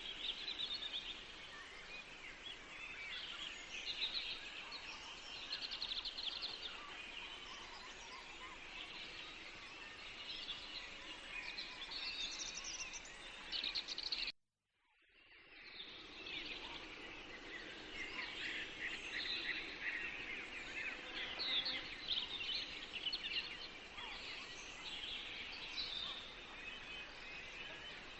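Several songbirds chirping and singing together over a steady forest hiss. About halfway through, the sound cuts out completely for about a second and then fades back in.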